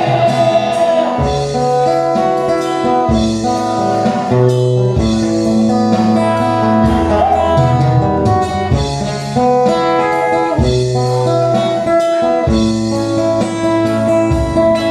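Live band playing an instrumental break in a rock ballad, with a guitar carrying the melody over bass and drums.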